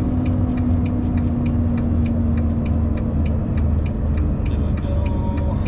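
Semi truck's diesel engine rumbling steadily inside the cab of a 2000 Freightliner FLD 112, with the turn-signal flasher clicking about three times a second as the truck slows to turn into a driveway.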